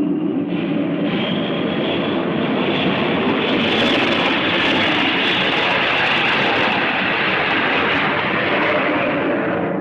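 Jet aircraft engine noise with a thin high whine, the hiss reaching its highest in the middle and easing off near the end.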